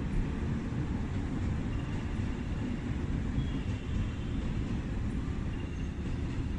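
Steady low rumble of station ambience on a Shinkansen platform between trains, with a few faint, short high tones over it.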